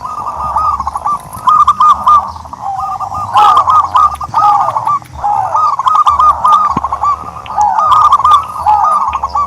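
Turtledoves cooing: quick runs of short, arching coos, with a higher and a lower line of notes overlapping, broken by brief pauses.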